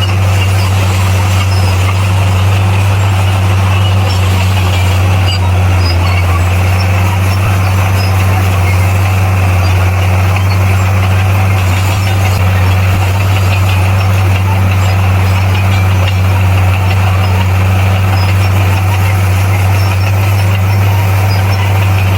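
Bulldozer's diesel engine running at a steady speed, a loud unchanging low drone.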